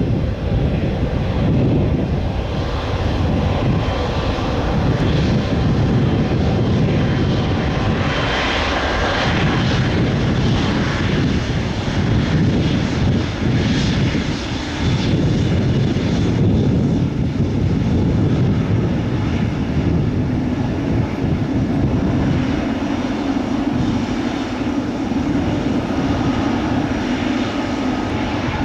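Boeing 777-300 twin-engine jet airliner on a takeoff at full thrust: a loud, steady jet-engine rumble with no breaks.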